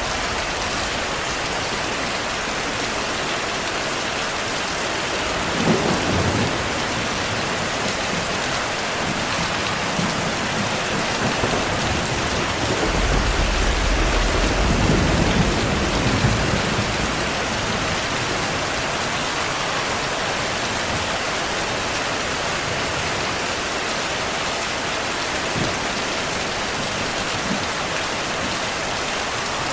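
Heavy rain falling steadily. Thunder cracks briefly about six seconds in, and a longer low rumble rolls through the middle.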